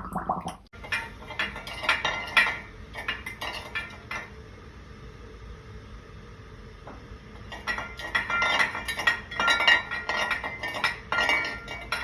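Hard objects clinking and clattering together, like dishes or glassware, in two busy bouts with a quieter stretch between them: one from about a second in, the other from about seven and a half seconds in.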